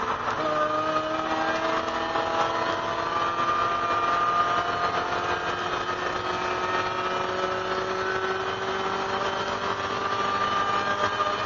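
1999 Mazda MX-5 Miata race car's 1.8-litre four-cylinder engine pulling hard under full throttle, its pitch climbing slowly as the car accelerates out of a corner and down the straight. Heard from inside the stripped cabin, with road and wind noise underneath.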